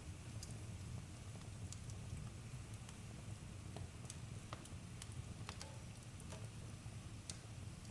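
Campfire burning, with scattered sharp crackles and pops, irregular and a few a second, over a steady low rumble.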